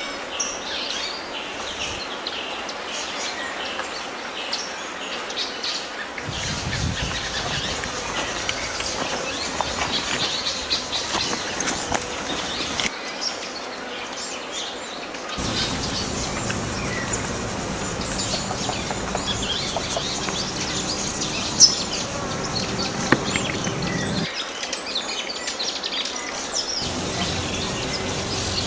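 Outdoor field ambience of birds chirping and calling, with insects. A low steady drone comes in about halfway, and there are two brief sharp clicks a little past two-thirds of the way in.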